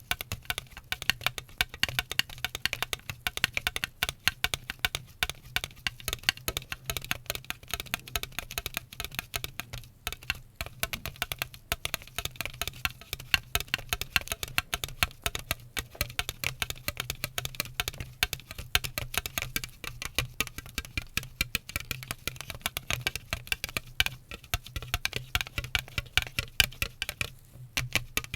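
Rapid, dense tapping and clicking, many taps a second and unbroken, over a steady low hum.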